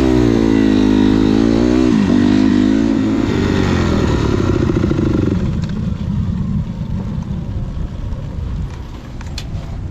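Dirt bike engine running loud, its pitch rising, wavering and dipping briefly about two seconds in. The engine note stops abruptly about five seconds in, leaving a rougher, quieter low rumble.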